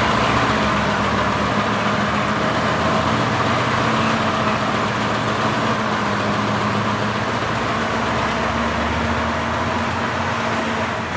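Heavy diesel truck engine running steadily, with a low hum and road noise.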